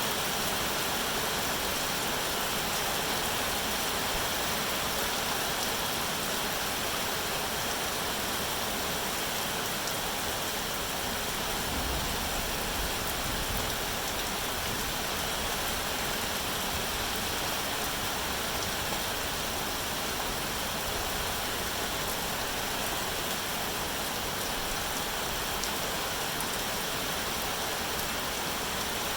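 Steady rain falling, an even, unbroken hiss, with a faint low rumble about twelve seconds in.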